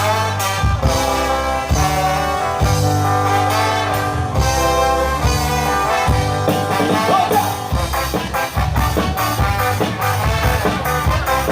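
Ska band playing: brass horns over bass and drums, with a steady beat.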